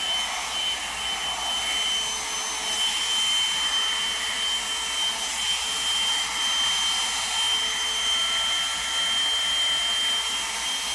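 Revlon One-Step Volumizer hot air brush running steadily: a loud, even rush of air with a high, steady whine from its motor, sounding like a jet.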